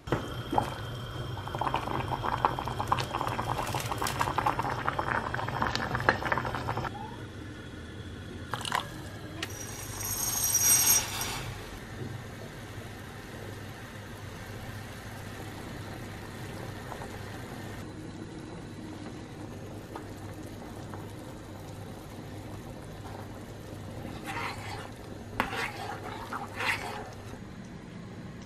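Water running and pouring into a container for about seven seconds, with sharp clinks of dishes. A short high squeak follows about ten seconds in, then a few more clinks near the end, over a low steady hum.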